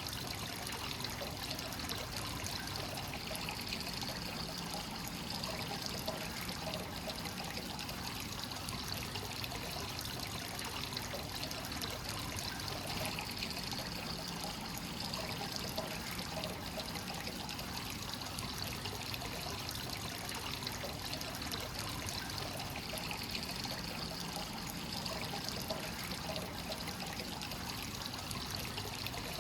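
Free-flowing hot-spring water pouring steadily into a rock bath, an even, unbroken splashing flow.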